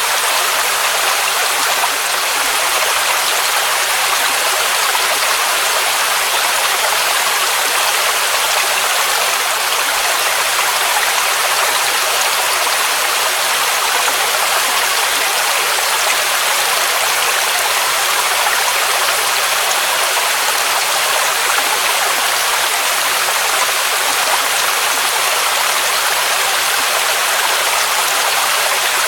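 Waterfall rushing steadily: a constant, unchanging hiss of falling water, mostly high with little deep rumble.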